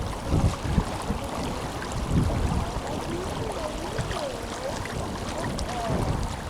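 Tenryū River water rushing and babbling steadily, with wind buffeting the microphone in low rumbles now and then. A faint wavering tone rises and falls several times in the middle.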